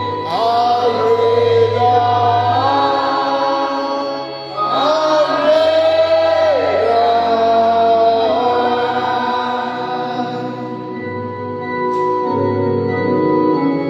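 Gospel worship singing: voices hold slow notes and slide between pitches over a steady organ and bass accompaniment.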